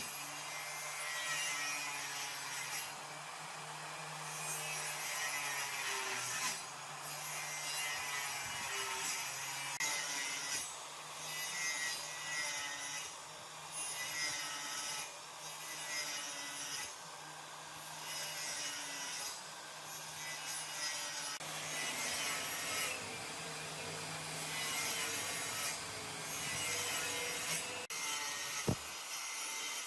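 A tool working wood: a continuous sawing, scraping rasp that breaks off briefly every two or three seconds.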